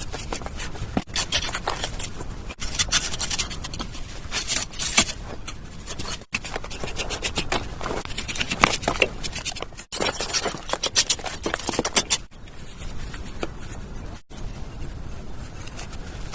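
Repeated scratching and scraping of a tool on a hard surface, in quick strokes, coming in several stretches that break off abruptly.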